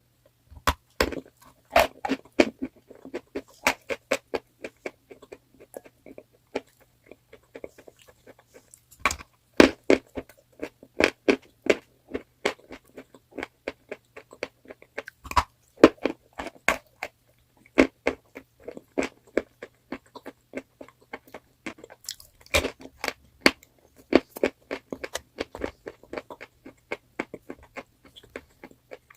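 Close-up biting and chewing of crunchy chalk: rapid clusters of sharp crunches and crackles, with heavier bites about 9, 15 and 22 seconds in.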